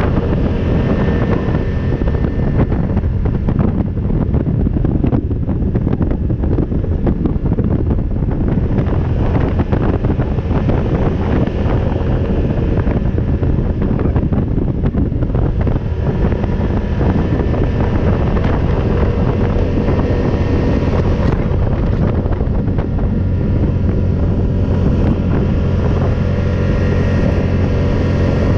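ATV engine running steadily under way on a trail ride, with wind buffeting the microphone.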